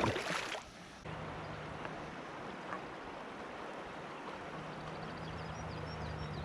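Steady rush of river water around the kayak, setting in abruptly about a second in, after a brief loud burst at the start; faint bird chirps in the second half.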